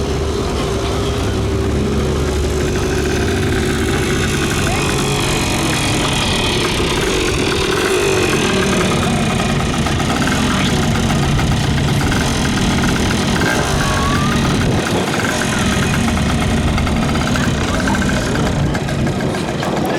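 Car engines running at low revs, a steady idling hum with small changes in pitch.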